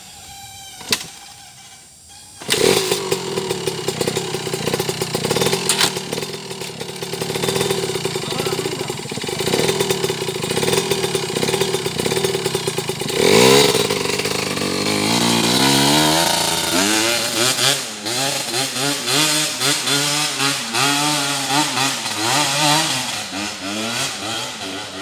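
Trail motorcycle engine starting about two and a half seconds in and running at a steady fast idle. About thirteen seconds in it revs up sharply, then the throttle is blipped up and down again and again to the end.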